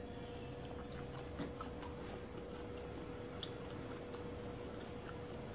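Faint close-up eating sounds: soft chewing of fruit with scattered small mouth clicks at irregular moments, over a steady faint hum.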